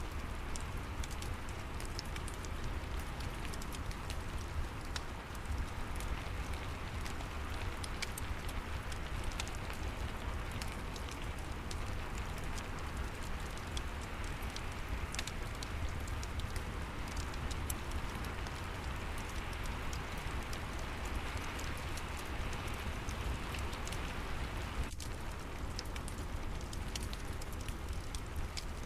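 Steady rain falling, with a low rumble beneath and scattered small crackles from a wood fire in a fireplace.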